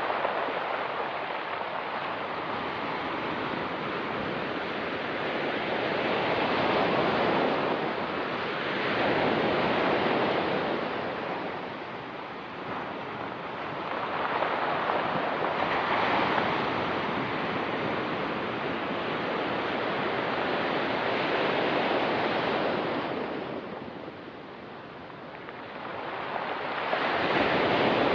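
Ocean surf breaking and washing onto a pebble beach, the sound swelling and easing in waves every few seconds, with a louder surge near the end.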